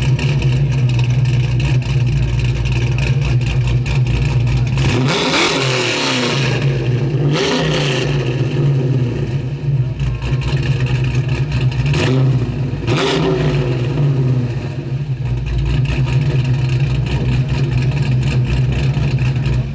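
Car V8 idling with a steady low rumble, revved briefly four times, around a quarter of the way in, near the middle twice, and about two-thirds through, each rev rising and falling back to idle. It is the Corvette engine in a 1956 Chevrolet Bel Air.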